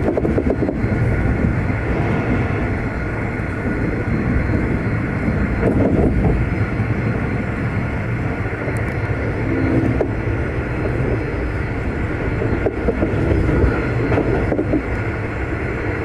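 V/Line locomotive-hauled passenger train running along the line, with a steady loud rumble of wheels on the rails that rises and falls slightly.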